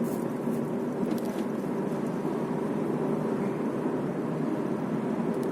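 Steady road and engine noise inside a Smart car's cabin while driving.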